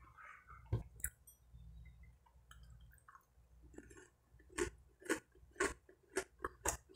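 A person chewing buttered bread close to the microphone: quiet mouth noise with scattered wet clicks. The clicks come louder and quicker, about two a second, from about four and a half seconds in.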